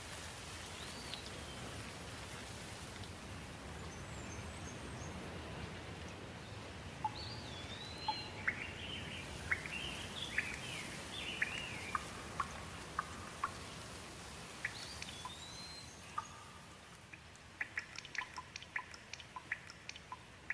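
Steady rush of flowing water with birds singing over it: a few short whistled notes, a run of quick calls in the middle, and a burst of rapid chirps near the end.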